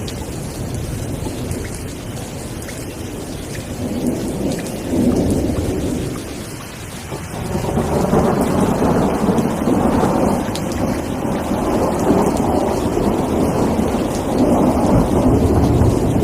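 Steady rain with rolling thunder. The low rumble swells, eases briefly about halfway through, then grows louder and keeps rolling.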